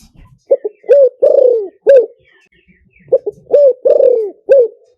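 A spotted dove cooing: two phrases of about five low coos each, the longest note in each falling away at its end, with a pause between the phrases. The call is a lure call of the kind played to draw wild spotted doves in for trapping.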